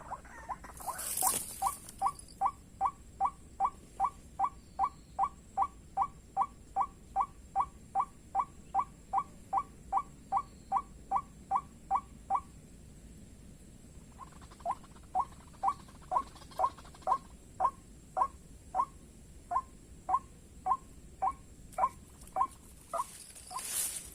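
White-breasted waterhen calls: a short clucking note repeated about three times a second for some twelve seconds. After a pause of about two seconds comes a second, slightly slower and less even series. There is a brief rustle near the start and another near the end.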